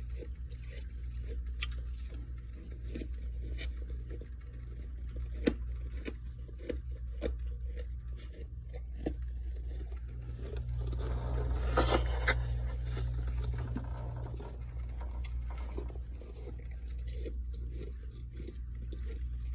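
Ice frost being scraped and crunched: scattered short crackles and clicks, with a louder scratchy stretch near the middle. A steady low hum runs underneath.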